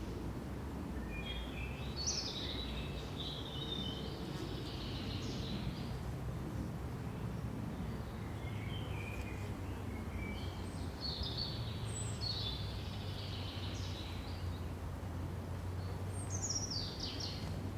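Small songbirds chirping and trilling in three short spells, the last a quick falling phrase near the end, over a steady low rumble of forest background noise.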